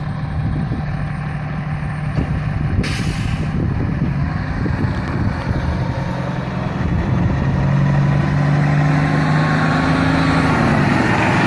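Fire truck's diesel engine running, with a short air-brake hiss about three seconds in; from about seven seconds the engine speeds up and grows louder as the truck moves off.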